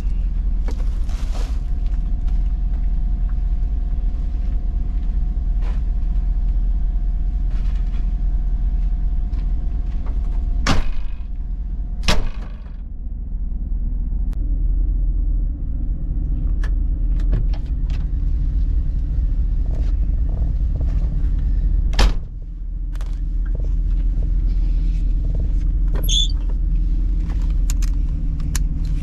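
1989 Chevy G20 van driving, a steady low engine and road rumble. There are three sharp knocks, two close together near the middle and one later.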